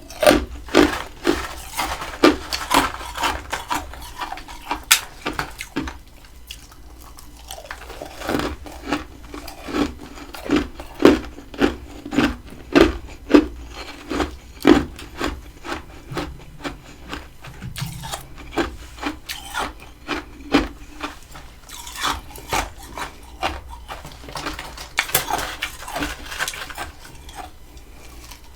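Close-miked chewing of humidifier-made freezer frost: repeated crunching, rasping bites, at times about two strokes a second.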